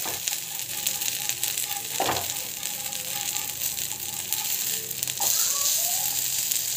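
Corn cutlets sizzling in oil on a cast-iron tawa. A spatula scrapes against the pan a few times as the cutlets are turned.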